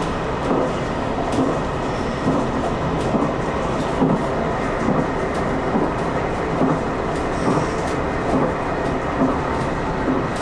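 Diesel limited express train running at speed, heard from inside the front cab: a steady rumble of wheels on rail, with a clickety-clack of wheels over rail joints about once a second.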